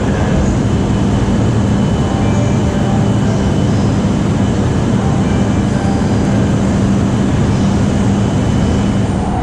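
JR East E233-series electric commuter train heard from inside the car: a steady rumble with a constant low hum throughout.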